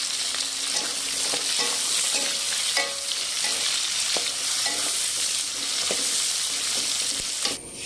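Pea eggplants and sliced vegetables sizzling in hot oil in a wok, stirred with a spatula that scrapes and knocks lightly against the pan. The sizzle cuts off suddenly near the end.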